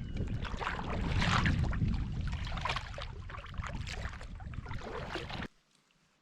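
Wind buffeting the microphone over water splashing and lapping around a kayak, cutting off abruptly about five and a half seconds in.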